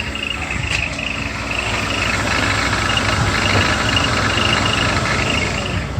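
BMW M50 inline-six idling with a rapid, cricket-like chirping from the accessory belt's tensioner mechanism, the sign of a faulty tensioner that new idler rollers did not cure.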